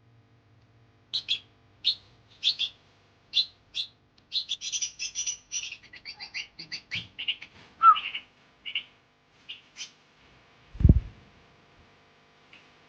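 A baby bird chirping: short, high chirps repeated, crowding into a rapid run around the middle and thinning out after. A single low thump near the end.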